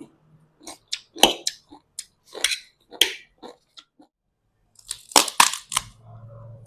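Close-up eating sounds: a run of short, crisp crunches and bites, with a pause of about a second in the middle.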